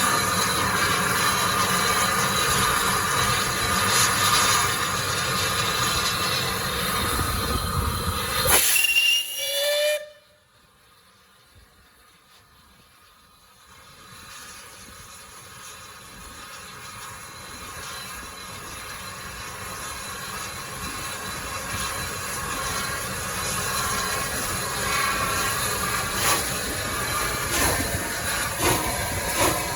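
Steam locomotive working hard with hissing steam and held whistle-like tones. About ten seconds in it cuts off suddenly to near quiet, then a train is heard again, growing steadily louder, with a few sharp clicks near the end.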